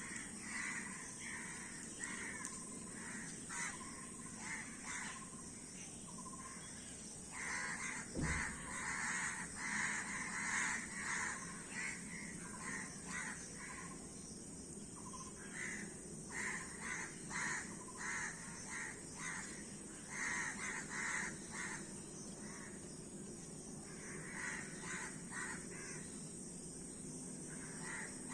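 A group of crows cawing in repeated bouts, with short lulls between them. A single low thump about eight seconds in.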